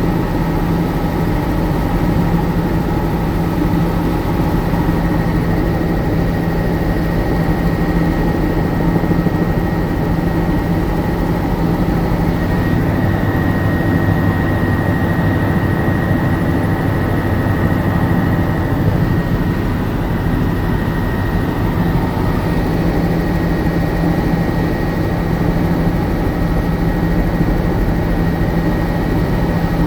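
Helicopter running steadily: a constant drone with a low hum and a thin high whine.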